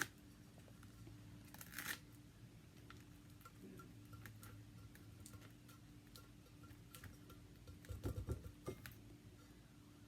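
Nearly silent room with a steady low hum, broken by faint ticks and soft rubbing as small stickers are pressed by hand onto a fishing lure. There is a brief rustle about two seconds in and a short cluster of soft knocks and rubs near the end.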